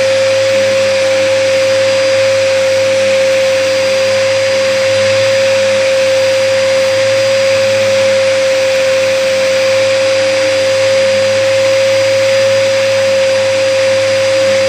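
Hoover vacuum cleaner running steadily with its brushroll: a constant high whine over a rushing hiss. The vacuum is clogged, which the uploader gives as the reason the run is a fail.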